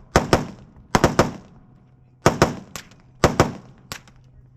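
Gunshots from firearms on a shooting range: about a dozen sharp reports in quick groups of two and three, about a second apart.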